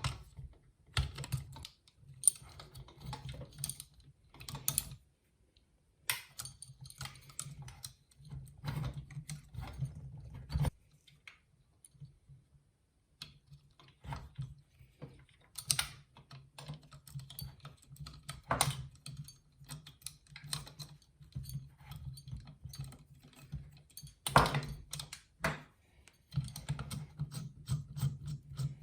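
Irregular small metallic clicks and taps of hand tools on the screws and parts of a model turbojet being taken apart, over a low hum that drops out several times.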